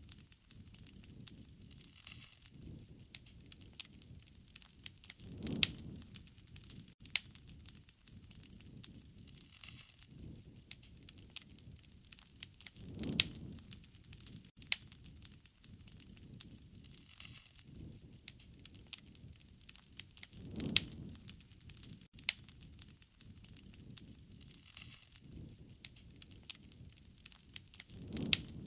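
Wood fire crackling and popping in quick irregular snaps, with a low whoosh of flame swelling and fading about every seven to eight seconds.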